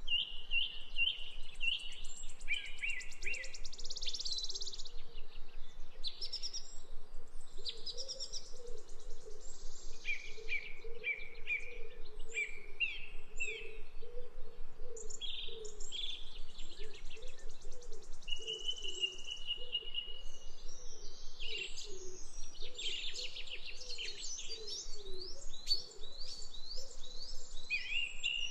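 Several songbirds singing over one another: quick trills, rapid repeated chirps and whistled phrases follow each other without a break, with one long held whistle a little past the middle. A faint low warbling runs steadily underneath.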